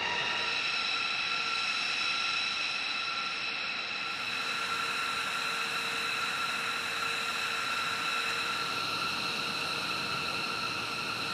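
Steady mechanical whine: several high tones hold their pitch over a constant hiss, with no change in speed.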